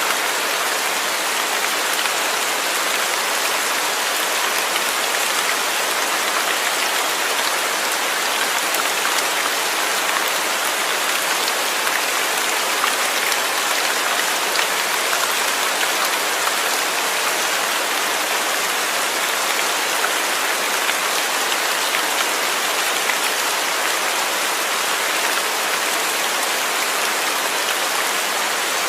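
Steady rain falling on a surface, an even hiss with faint scattered drop patter.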